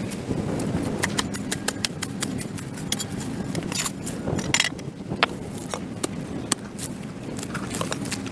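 A hand tool scraping and chopping at packed dirt and grass on a concrete sidewalk, making an irregular run of sharp scrapes and clicks.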